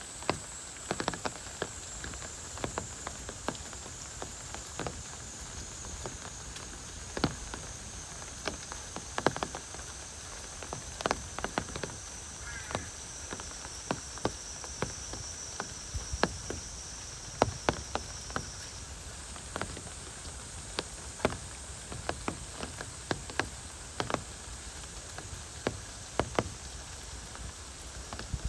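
Heavy rain falling steadily, with loud single drops striking close by at irregular moments. A faint, thin high whine runs underneath, slowly falling in pitch and jumping back up about two-thirds of the way through.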